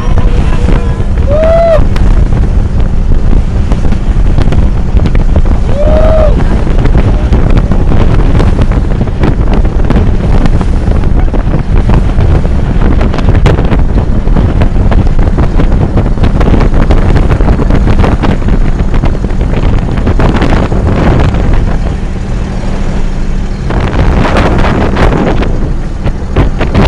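A boat's engine running steadily under heavy wind buffeting on the microphone. Three short rising-and-falling calls come in the first six seconds.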